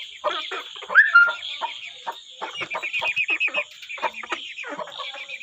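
Chickens clucking in quick, overlapping calls, with one loud, short rising squawk about a second in.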